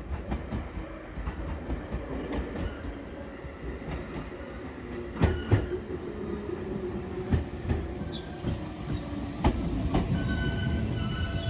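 A JR 213 series 5000 electric train pulling into a station: a steady rolling rumble with sharp clacks as the wheels cross rail joints. Near the end, steady high squealing tones come in as it slows.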